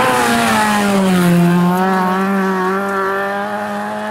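Historic rally car engine running hard at high revs, the note dipping slightly about a second in and then held steady.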